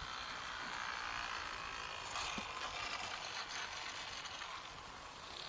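OS 60 FP two-stroke glow engine of a radio-controlled model airplane buzzing steadily in flight, heard from a distance.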